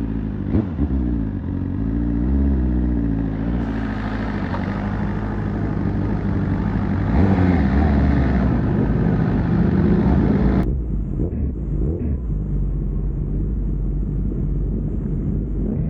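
Motor vehicle engine running on the move, its pitch rising and falling in the first few seconds, under a steady rush of wind and road noise. About ten seconds in the sound changes abruptly to a duller, steady low drone.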